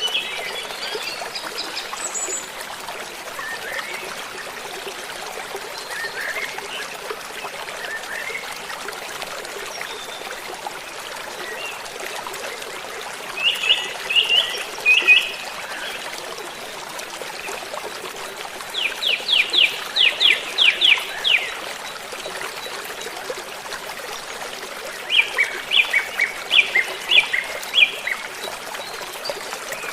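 Small birds calling in three separate bursts of quick repeated chirps, one of them a fast run of about a dozen notes. Under the calls runs the steady sound of trickling water.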